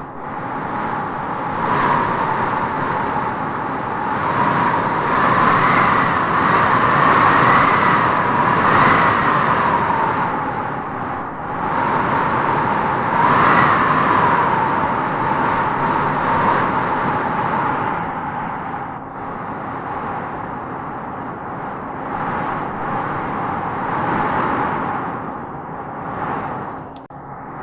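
Wind howling in gusts: a steady rush with a whistling howl that rises in pitch as each gust swells and sinks as it eases, strongest in the first third and again about halfway through.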